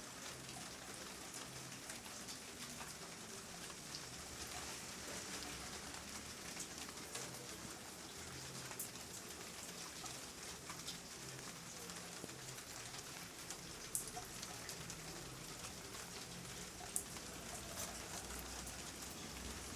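Steady rain falling, an even hiss with scattered individual drops ticking sharply, two louder drop hits near the middle and later on.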